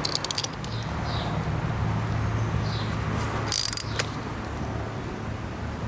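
Hand work with a motorcycle chain press tool while a master link side plate is pressed on: a sharp metal click and rattle about three and a half seconds in, and a second click just after, over a steady low hum.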